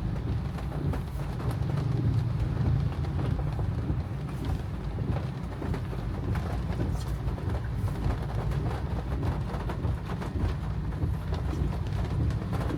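Steady low rumble of a car driving on a wet road, heard from inside the cabin, with faint scattered ticks of rain on the car.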